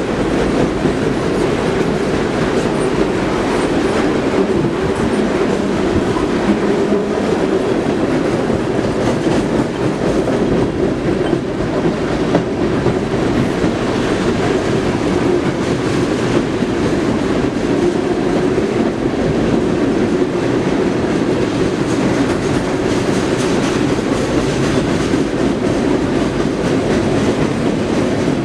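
Freight train cars rolling past at track speed: a steady rumble of wheels on rail with irregular clicking as the wheels cross rail joints.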